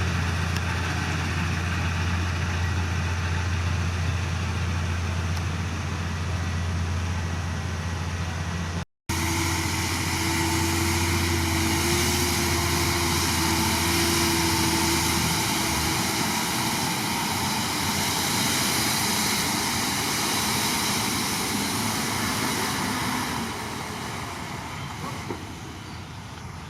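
Heavy diesel engine of earth-moving machinery running steadily with a deep low drone. A short break about nine seconds in is followed by a higher held whine for several seconds; the deep drone drops away about halfway, and the sound grows quieter near the end.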